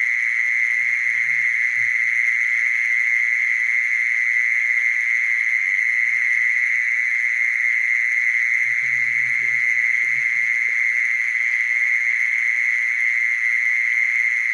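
Mole cricket singing one continuous, high-pitched buzzing trill that holds steady without a break, with a faint low rumble about nine seconds in.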